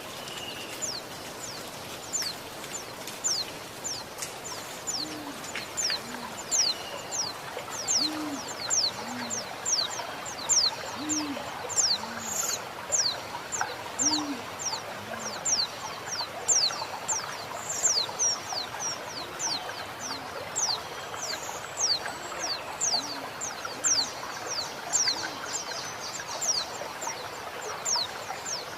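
Female white-eye (pleci) giving thin, high, falling call notes over and over, about two a second, over a steady rush of running water. A dove coos low notes in pairs through much of it.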